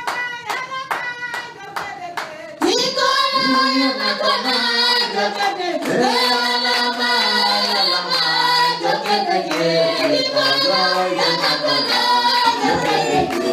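Church congregation clapping in a steady rhythm. About two and a half seconds in, the congregation breaks into a song, many voices singing together over the continuing hand-claps.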